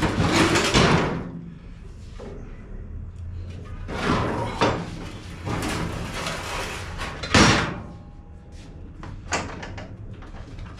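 Knocks and scrapes of metal parts and tools being moved about in a workshop, with the loudest sharp knock about seven seconds in.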